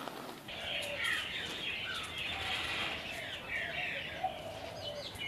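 Small birds chirping and twittering in a busy chorus of short, quick chirps that slide up and down.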